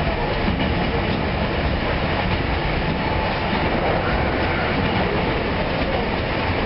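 Kotoden electric commuter train running, heard from inside the passenger car: a steady rumble of wheels on the rails.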